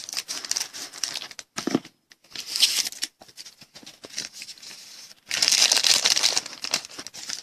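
Trading card pack wrappers crinkling and tearing as packs are ripped open and crumpled. The rustling comes in irregular bursts, with the longest and loudest about five seconds in.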